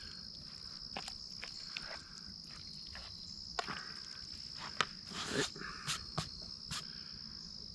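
Steady high-pitched chirring of insects, with scattered light clicks and scrapes from a utensil stirring food in a bowl, busiest about five to seven seconds in.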